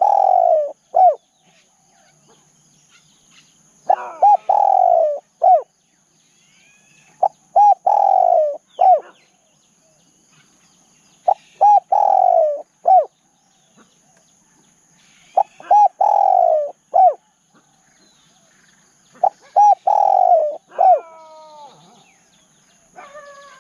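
Spotted dove cooing its repeated phrase about every four seconds: two short coos, a long falling coo, then a short final coo. Fainter chirps of other birds come between the phrases, and near the end another call with stepped falling notes is heard.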